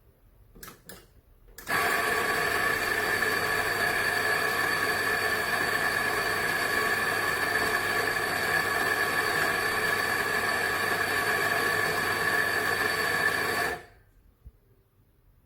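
Lelit Fred PL044MMT coffee grinder with 38 mm conical burrs running steadily for about twelve seconds, then stopping suddenly. A few short clicks come just before it starts.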